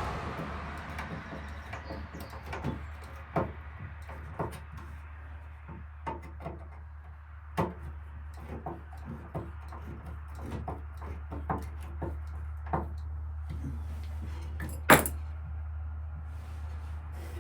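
Scattered light clicks and knocks of hand work on a wooden cupboard and its metal hinge hardware, with one sharp knock about fifteen seconds in, over a steady low hum.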